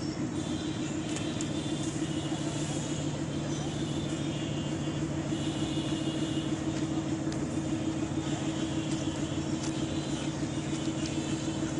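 Diesel train running with a steady, low engine drone and a fast even throb.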